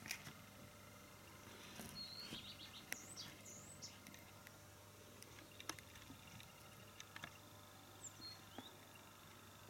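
Faint chirps and short sweeping calls of small songbirds, in a cluster a couple of seconds in and again near the end, with a few light clicks between.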